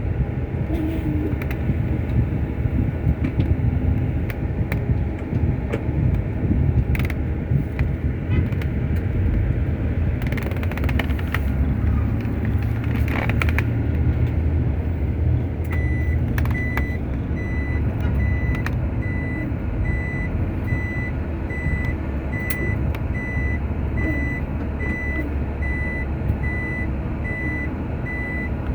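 Truck engine running with a steady low rumble. About halfway through, a reversing alarm starts beeping at a steady high pitch, roughly once a second: the truck is backing up.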